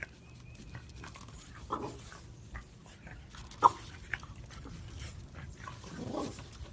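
French bulldog puppy making a few short, separate sounds, the sharpest about three and a half seconds in.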